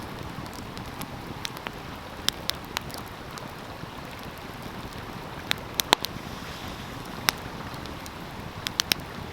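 Wood fire crackling, with scattered sharp pops in small clusters, over the steady rush of a flowing stream.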